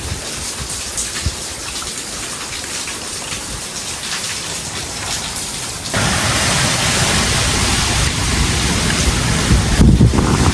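Heavy tropical rain falling steadily, with individual drops tapping. About six seconds in it suddenly becomes louder and denser. Just before the end there is a brief low rumble.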